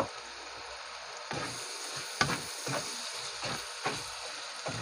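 Pork, garlic, onion and chilies sizzling in hot oil in a wok. From about a second in, a spatula stirs the mix in short, irregular strokes against the pan.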